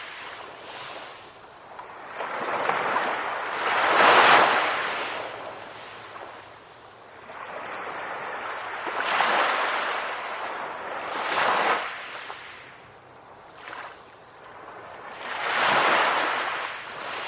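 Ocean waves breaking and washing in to shore. The surf swells and fades several times, a few seconds apart, with a softer hiss of water between the waves.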